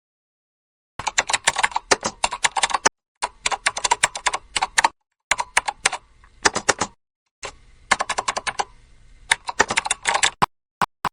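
Rapid, sharp clicking and rattling from small hard objects being handled, in four bursts of about two seconds each, then a few single clicks near the end.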